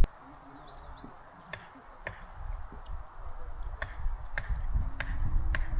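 Scattered sharp clicks or knocks, roughly one a second, over a low rumble that grows louder about halfway through.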